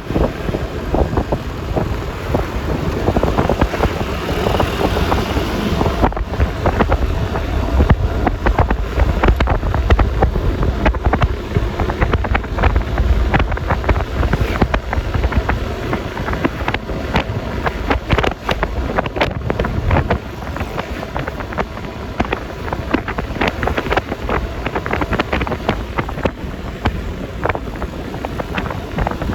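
Wind buffeting the microphone and road rush on a moving Yamaha Lexi LX 155 scooter, its single-cylinder engine running underneath. The low rumble is heavier for a stretch in the middle and eases about two-thirds of the way through.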